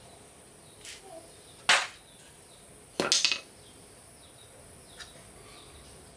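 Metal tools and parts being handled during a truck repair: a few sharp knocks, with one loud knock just under two seconds in and a short rattling clatter about three seconds in, between fainter taps.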